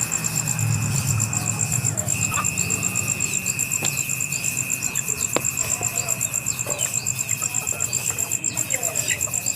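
Insects trilling, a steady high pulsing trill with a second, lower steady drone that stops briefly about two seconds in. Faint scattered chirps and clicks sound throughout.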